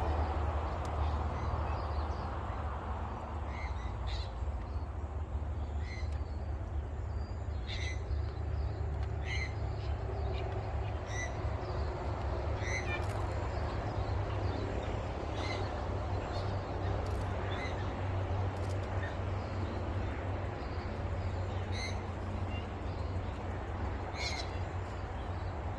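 Birds calling, short sharp calls every second or so, over a steady low rumble.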